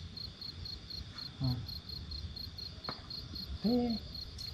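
Crickets chirping steadily, a high pulsed trill at about four chirps a second, with a short voice-like call near the end.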